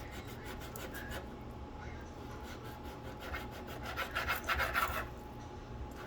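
Knife cutting through raw meat in quick repeated rasping strokes, loudest about four seconds in, over a faint steady hum.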